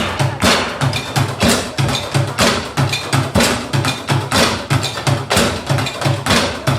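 Live percussion music: sharp knocks like a wood block on a steady fast beat, about three or four a second, over a repeating low bass note.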